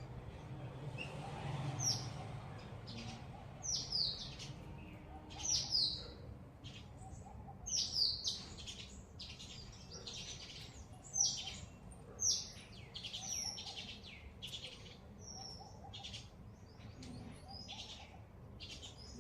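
Birds chirping: a run of short, high, downward-sweeping chirps repeated every second or so, over a low steady rumble.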